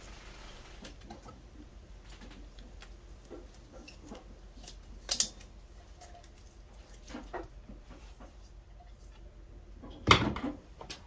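Scattered light clicks and knocks of small parts being handled on a workbench, with a sharp tap about halfway and a louder knock about a second before the end.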